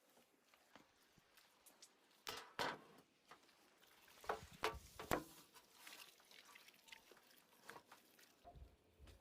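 Faint, scattered clicks and light knocks, with a few louder knocks about two and a half seconds in and again around four to five seconds in.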